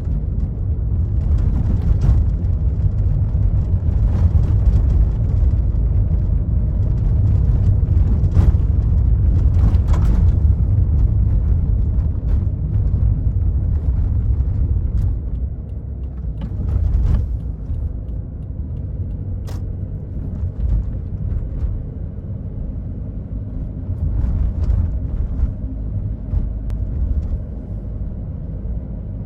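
2005 Toyota Yaris diesel heard from inside the cabin while driving: a steady low engine drone mixed with tyre and road rumble, with a few short knocks along the way. It eases off a little about halfway through.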